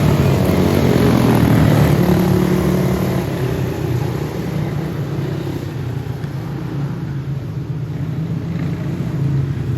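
Racing karts with single-cylinder Briggs & Stratton Animal engines running at speed. The sound fades somewhat a few seconds in and swells again near the end.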